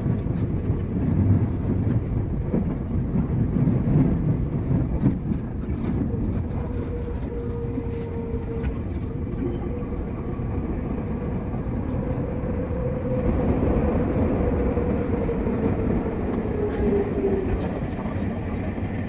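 JR 221 series electric train running, heard from inside the driver's cab: a steady rumble of wheels on rail. From about ten to thirteen seconds in, a high steady wheel squeal sounds as the train takes a curve.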